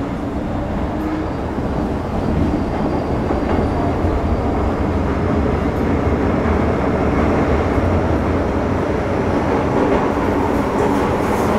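Interior running sound of an MTR Metro Cammell M-Train (CM-Stock) electric multiple unit with GEC GTO chopper traction, moving through a tunnel. Its steady wheel-and-rail and traction rumble grows slightly louder over the first couple of seconds, then holds.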